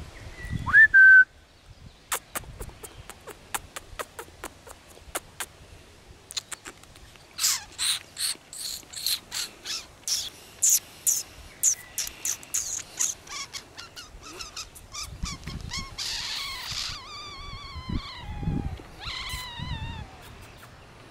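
Birds calling in bush: a loud short rising whistle about a second in, then a run of sharp clicks, a fast series of loud repeated calls through the middle, and descending stepped calls near the end.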